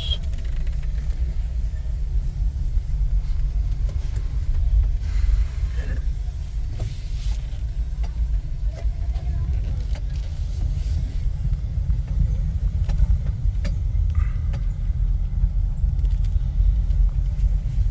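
Low, steady rumble of a car on the move, with scattered light clicks and rattles.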